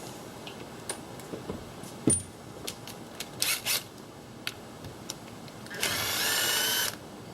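A power drill runs in one burst of about a second near the end, its motor whine rising slightly. Before that come scattered clicks and knocks of tools being handled, the loudest a knock about two seconds in.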